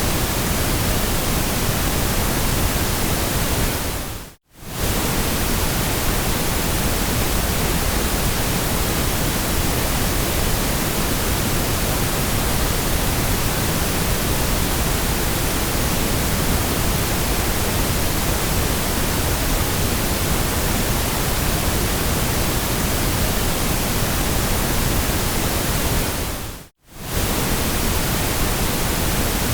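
Steady, even white noise, a featureless hiss across the whole range from deep rumble to high hiss. It fades out briefly to silence and comes back twice: about four seconds in and near the end.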